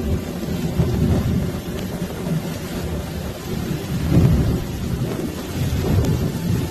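Heavy rain falling during a thunderstorm, with a low rumble of thunder that swells about four seconds in.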